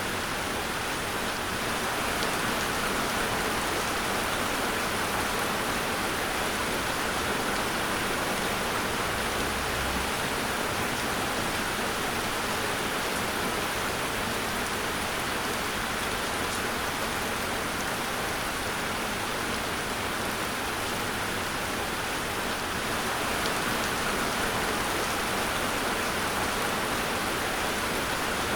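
Steady, continuous rainfall pattering on surfaces, an even hiss of many drops with no thunder.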